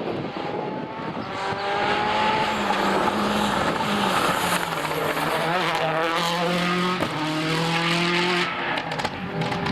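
Rally car engine running hard on a stage, its pitch rising and dropping with throttle and gear changes, getting louder about two seconds in.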